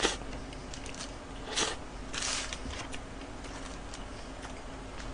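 Close-up eating sounds of a person chewing a burger: a sharp mouth smack right at the start, then quiet chewing with a couple of brief crackles about one and a half and two seconds in.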